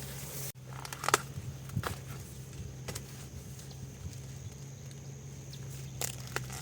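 A few scattered light knocks, each a single short tap, over a steady low hum and a faint steady high-pitched tone.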